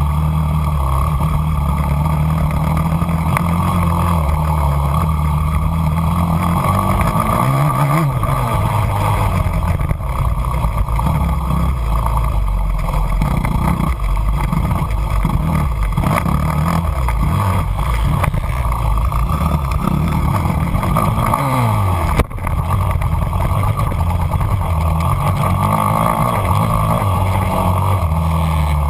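An engine running continuously, its pitch shifting up and down a few times.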